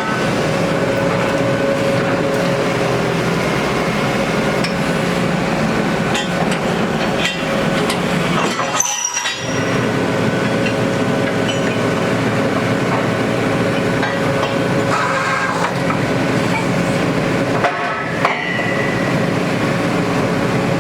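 Borehole drilling rig's engine running steadily, with a few sharp knocks as the drill bits are pulled and the casing is handled.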